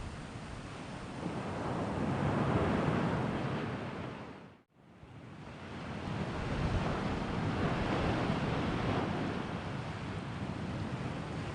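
Sea waves washing against the shore, swelling and ebbing in two long surges. The sound drops out abruptly for a moment a little before halfway through, then builds back up.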